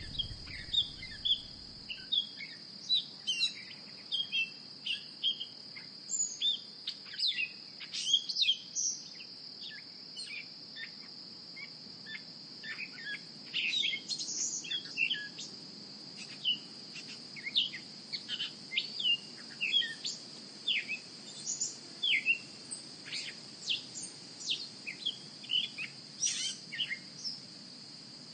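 Birds chirping busily, many short quick calls overlapping, with a steady high-pitched hum running underneath.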